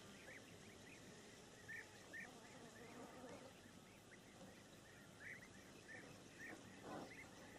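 Near silence, with faint short chirps repeating in little clusters from a small bird, and a brief soft rustle near the end.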